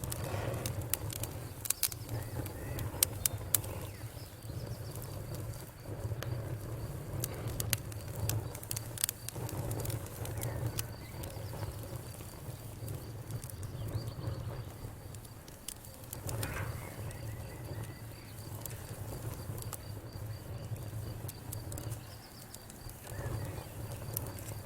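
Wood fire crackling, with many sharp, irregular pops and snaps over a steady low rumble and a faint steady high tone.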